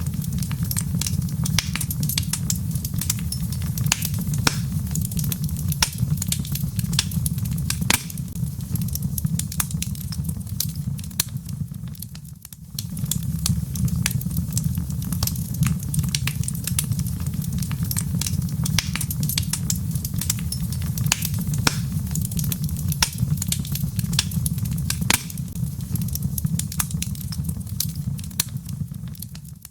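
Wood fire in a fireplace crackling: frequent sharp pops and snaps of burning logs over a steady low rumble, which dips briefly about twelve seconds in.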